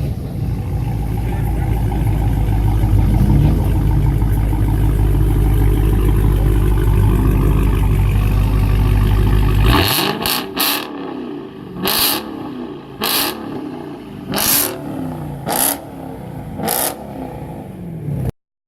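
A car engine running with a deep, steady rumble, then, about ten seconds in, revved in a string of short sharp blips, roughly one a second, the pitch rising and falling with each.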